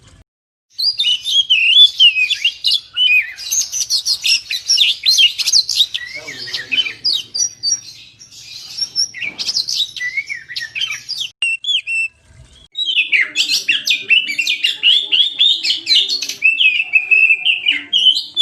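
Oriental magpie-robin (kacer) singing a fast, varied run of high whistled and chattering phrases. The song softens for a few seconds in the middle, breaks off briefly about twelve seconds in, then comes back loud.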